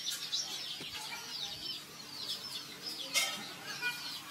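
Small birds chirping: many short, high, quickly falling chirps repeating throughout, with one louder short call about three seconds in.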